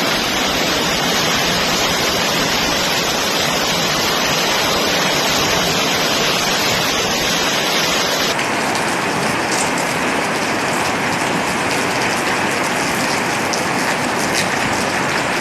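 Heavy rain pouring down, a dense steady hiss. About eight seconds in it cuts abruptly to a different rain recording with a hissier top.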